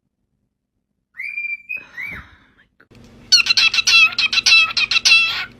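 A cockatiel gives a couple of short whistles, then breaks into a fast string of loud, shrill calls, several a second, starting about three seconds in.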